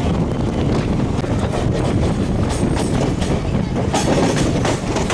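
Passenger train running at speed, its wheels clattering irregularly over rail joints under a steady loud rumble.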